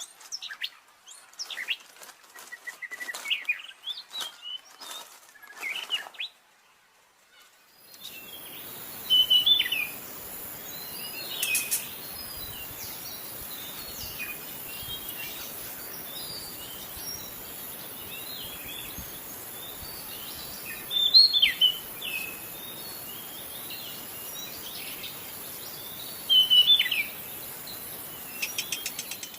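White-rumped shama singing: short whistled phrases and chirps, breaking off briefly near a quarter of the way through, then going on over a steady hiss, with loud phrases every few seconds.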